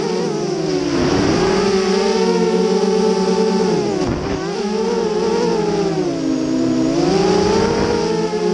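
FPV quadcopter's motors and propellers whining, the pitch swooping down and back up with the throttle. There are sharp dips at the start and about four seconds in, and a longer drop around six to seven seconds in.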